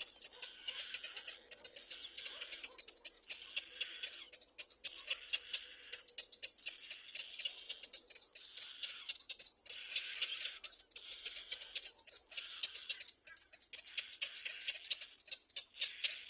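Little black cormorant chick calling: rapid, high ticking chitter, many clicks a second, in repeated bursts about a second long with short breaks between.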